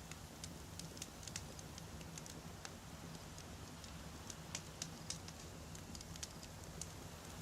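Wood fire burning: logs crackling with irregular sharp pops, several a second, over a faint steady low rumble.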